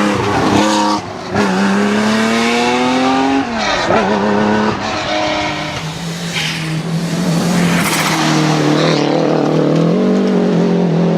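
Historic rally car engine driven hard, the revs climbing and dropping sharply at gear changes about one and three and a half seconds in, then running steadier at lower revs.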